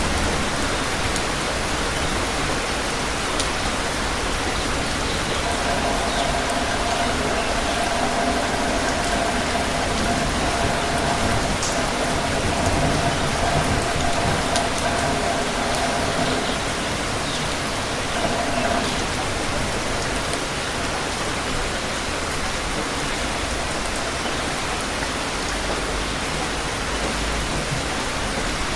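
Steady rain falling on surfaces, an even hiss that holds at one level throughout. A faint steady tone sits under it through the middle stretch.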